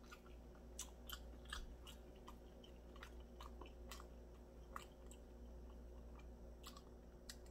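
Faint chewing of a sauced chicken drumstick, with scattered soft mouth clicks and smacks.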